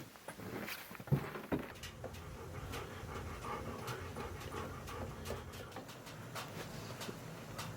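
A dog panting steadily, with a couple of knocks about a second in and scattered sharp clicks.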